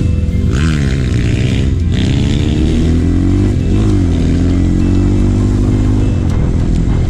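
Trail motorcycle engine running under throttle, its pitch dipping and climbing again several times in the first four seconds as the rider shifts and opens the throttle, then holding a fairly steady pitch.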